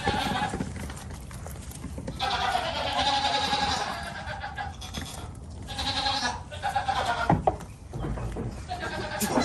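Goats bleating: several drawn-out calls with short pauses between them.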